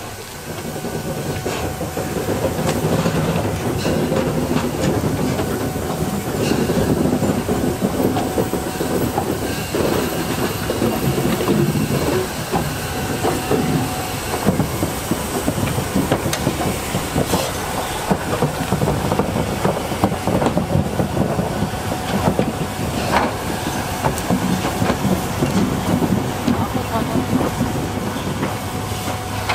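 Train rolling along the track, wheels clattering and knocking over the rails in an uneven run of clicks, with some hissing.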